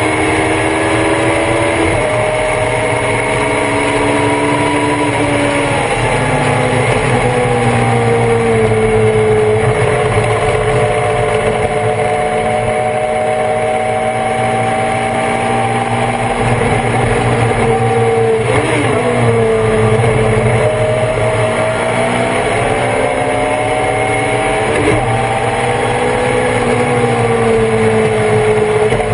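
On-board sound of a Thunder Roadster race car's engine run hard at racing speed. The pitch climbs, drops sharply at gear changes about two seconds in and again later, eases down as the car slows, and climbs again.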